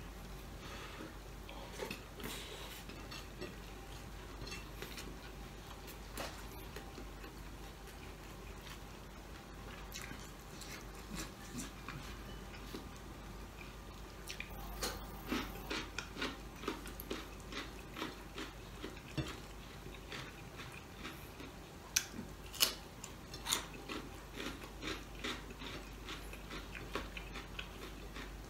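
Eating sounds: chewing and crunching of crispy pork sisig and rice eaten by hand, with bites of a raw cucumber stick. Small scattered clicks and crunches grow busier in the second half, with two sharper crunches about two-thirds of the way through.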